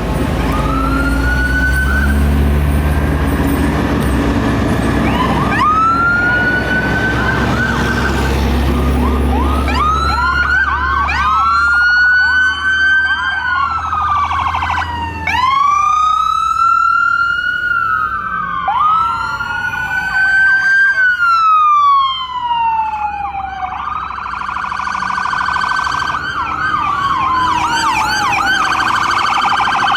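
Fire truck sirens sounding, several at once: slow rising-and-falling wails overlapping with quicker yelping glides. A low engine rumble underneath fades out about halfway through.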